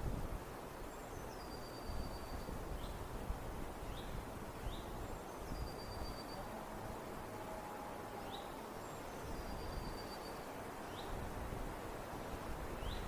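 Outdoor nature ambience: a bird repeating a high call about every four seconds, a note that drops and then holds, with short rising chirps in between, over a steady bed of wind and rustling.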